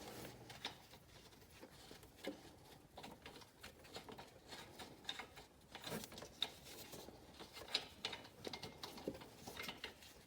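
Faint, irregular clicks, taps and light rattles of hand tools and metal parts being handled while the car's exhaust O2 sensors are worked out.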